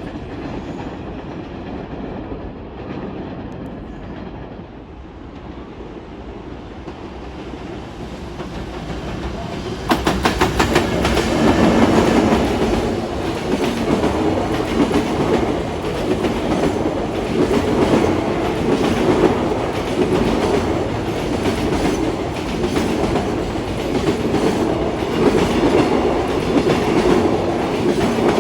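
Train noise fades over the first several seconds. About ten seconds in, a train passes close by with a sudden rush, its wheels clattering rapidly over the rail joints, and it keeps running loudly to the end.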